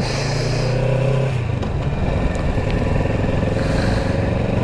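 Motorcycle engine running under way, its pitch shifting about a second in and then holding steady, under a haze of wind and road noise.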